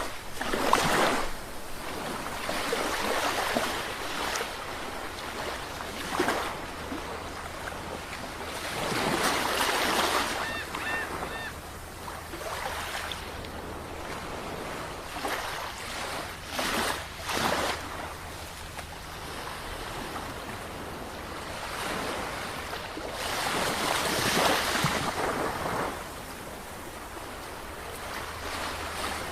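Sea waves breaking and washing in, rising and falling in surges every few seconds over a steady rush of surf.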